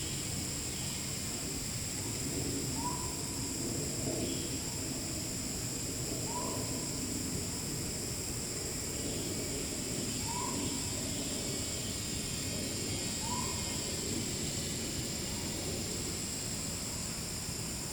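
An animal gives a short, rising-then-falling call near 1 kHz, repeated about every three to four seconds, in forest ambience over a steady, high insect drone.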